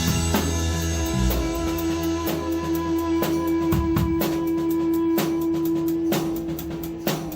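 Live rock band playing, with a guitar holding one long steady note over drum and cymbal hits; the low end drops away about a second in, and the note ends shortly before the full band comes back in.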